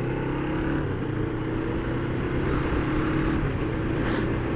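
Kawasaki GPZ500 parallel-twin engine running at a steady cruise. Its pitch rises a little about a second in and then holds, under a steady rush of wind.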